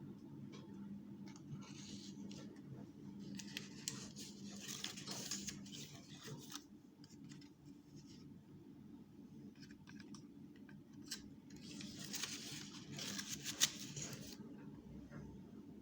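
Faint rustling and scraping handling noise with scattered clicks, in two stretches about three seconds and twelve seconds in, over a steady low hum.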